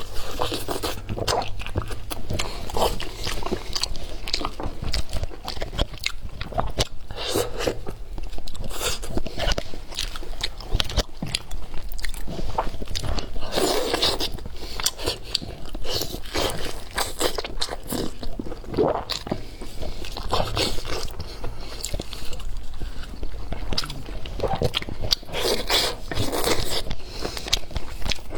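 A person eating: repeated crunchy bites and chewing, in quick irregular succession.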